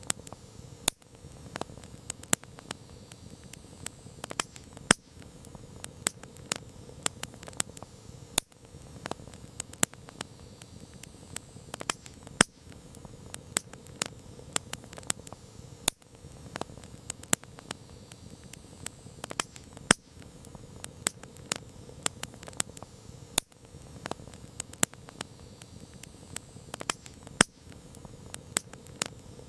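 Wood campfire crackling: irregular sharp snaps and pops over a steady soft hiss of burning.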